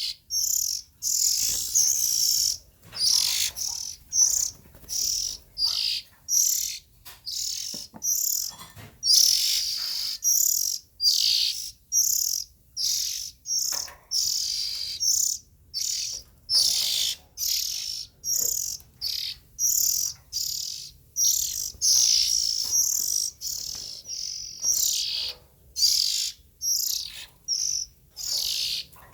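Young Oriental magpie-robin singing: a steady string of short, high chirping phrases, about one a second, with brief pauses between them.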